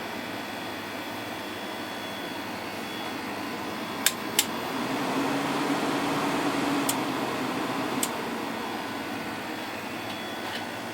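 Window air conditioner running on low cool, its fan blowing steadily and its Rechi Precision compressor running smoothly. A few sharp clicks come through, two about four seconds in and two more a few seconds later, and a low hum swells between them.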